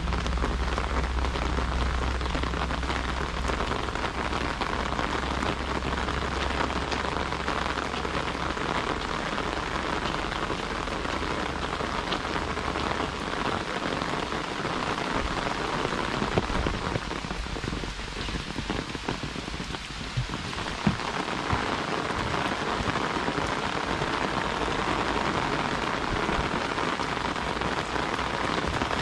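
Heavy rain falling steadily and hitting an umbrella held overhead, with a few sharper drop hits about two thirds of the way in. A low rumble runs underneath and stops about halfway through.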